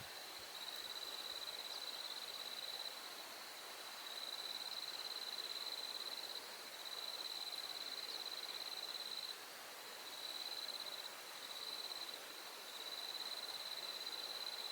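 An insect trilling at a high, steady pitch in bursts of one to three seconds, with short breaks between them.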